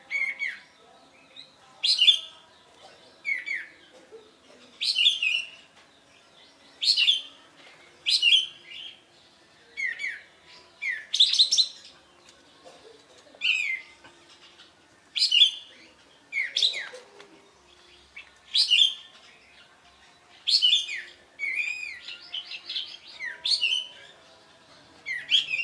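Kapas tembak songbird singing loud, short phrases of quick falling whistled notes, repeated about every second and a half, with a longer rapid run of notes about three quarters of the way in.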